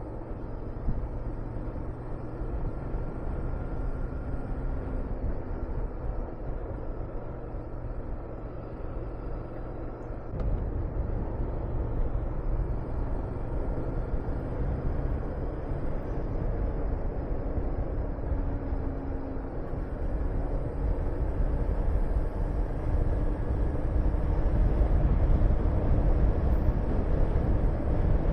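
Honda VTR250's V-twin engine running while riding, with wind rushing over the microphone. About ten seconds in the engine note shifts and the low wind rumble steps up, growing louder toward the end.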